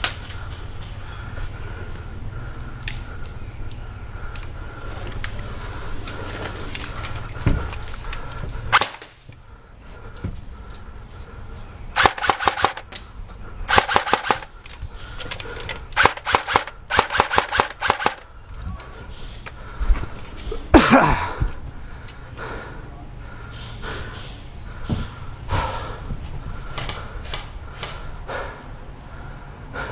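Airsoft gun firing several short rapid bursts, each a quick string of sharp cracks, through the middle of the stretch. A single loud knock follows a few seconds later, over steady background noise.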